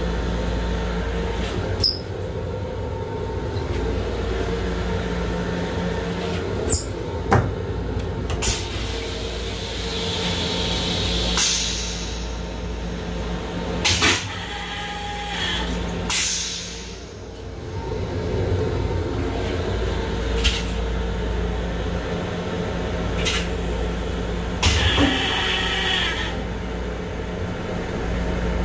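Steady rumble and hum of a Long Island Rail Road M7 electric railcar running, heard from inside its small restroom, with scattered clicks and knocks. About halfway through, the car's toilet flushes with a few loud rushing bursts that clear its stainless steel bowl.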